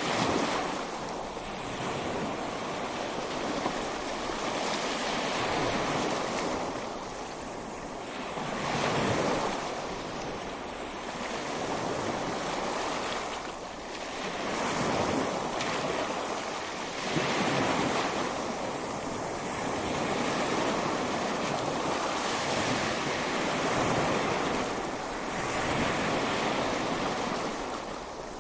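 Ocean waves breaking on a beach, the surf washing in and drawing back in swells every few seconds, with some wind noise.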